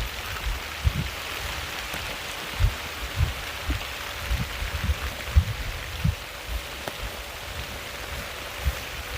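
Steady rain falling in a grass-covered orchard, an even hiss, with irregular dull low thumps scattered through it.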